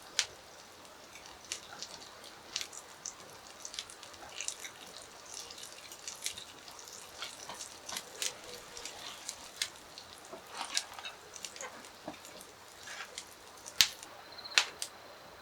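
Charcoal grill crackling and popping irregularly, many small sharp clicks, with two louder pops near the end.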